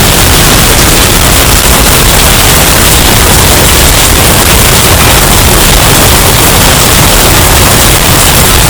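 Hurricane wind sound effect, heavily bass-boosted and distorted to the point of clipping: a steady, very loud wall of noise with no let-up.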